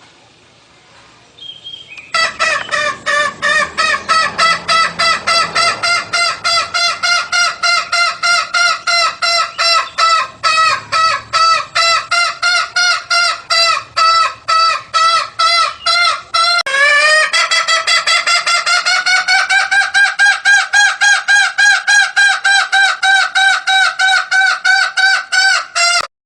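Jungle fowl clucking in a fast, even run of about four calls a second, starting about two seconds in. Past the middle the run breaks briefly and resumes slightly higher in pitch.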